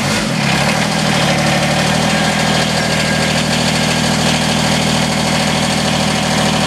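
Diesel tractor engine idling just after a cold start at freezing temperature without glow-plug preheat. Its pitch shifts briefly near the start and again slightly about two seconds in, then holds steady.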